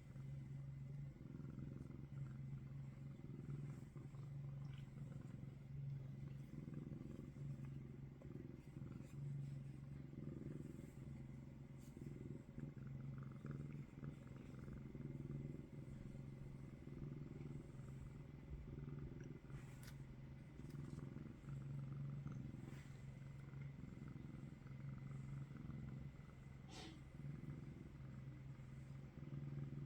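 Domestic cat purring steadily, the purr swelling and easing in a slow repeating rhythm, with a couple of faint clicks in the second half.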